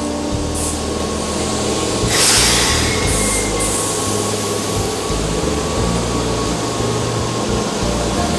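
Keihan 5000 series electric train standing at the platform and starting to pull away, a steady rumble broken by short hissing bursts; the loudest burst comes about two seconds in.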